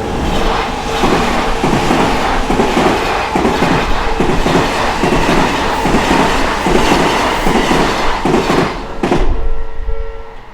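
Odakyu Odawara Line electric train passing over the level crossing, loud, its wheels clattering over the rail joints in a fast run of knocks for about nine seconds until the last car clears. The crossing's warning alarm rings as a steady tone and stands out again as the train goes.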